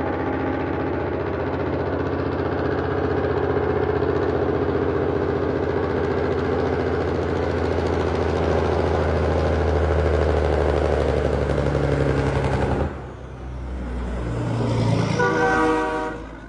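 Peterbilt logging truck's diesel engine brake (Jake brake) running with a steady, rapid rattling pulse, then cutting off suddenly about 13 seconds in. A shorter sound with a clear, rising pitch follows near the end.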